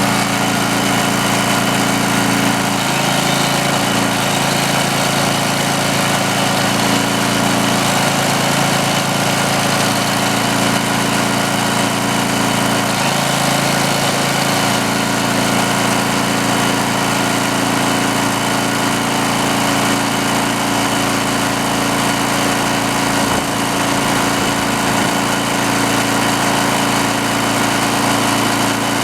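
Greenlee 5000-watt portable generator's engine running steadily while being load-tested with an electric drill plugged in. Its sound shifts briefly twice, about three and thirteen seconds in.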